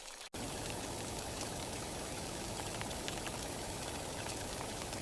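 Rain falling steadily: an even hiss with scattered drops ticking. It starts abruptly after a brief dropout a third of a second in.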